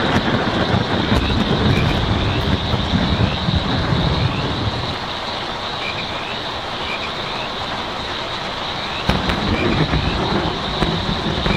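Heavy rain drumming on a tin roof as a dense, steady patter, over a low rumble that eases about five seconds in and comes back sharply just after nine seconds. Frogs call in short repeated chirps through the rain.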